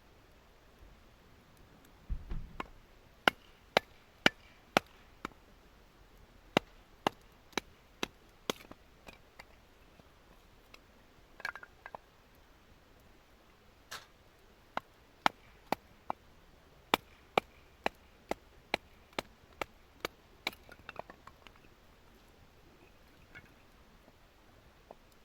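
Firewood being split by hand: a dull thump, then two runs of sharp knocks on wood, about two strikes a second, with a pause between them.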